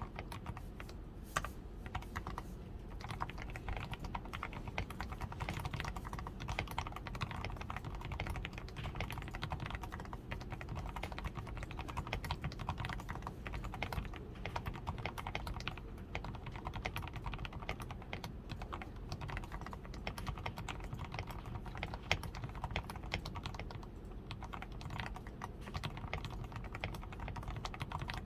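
Continuous typing on a DAREU A87 Pro mechanical keyboard, a steady stream of keystrokes. The keyboard is fully lubed with Krytox 105 and has a tape-modded PCB, foam-reinforced switches, XDA keycaps and lubed stabilisers.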